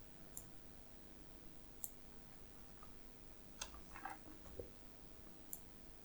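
Near-silent room tone with a few faint, scattered clicks.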